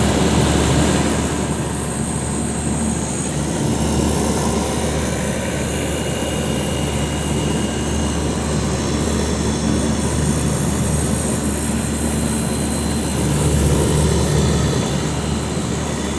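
Bard wall-mounted straight-cool air conditioner running: a steady low hum with an even rush of fan air over it.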